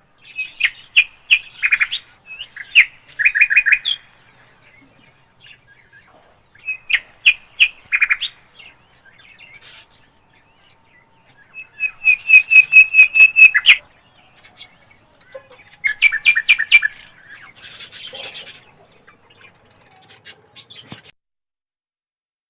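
Parakeets calling: bursts of sharp, repeated chirps separated by short pauses, with a fast, even run of about nine chirps near the middle.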